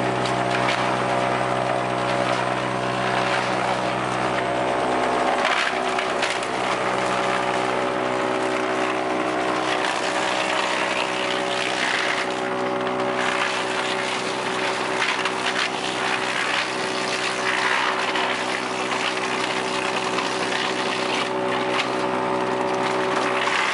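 Sawmill machinery running: a steady engine drone under the rough, shifting noise of wood being cut.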